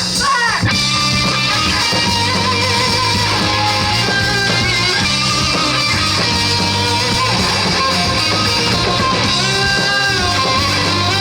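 Rock band playing live: electric guitar strumming over steady bass notes, loud and continuous.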